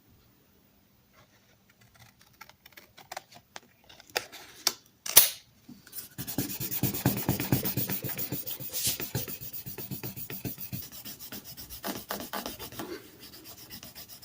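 Sandpaper rubbed by hand over a plastic tool handle in quick back-and-forth strokes, starting about six seconds in after a few scattered clicks and a sharp knock.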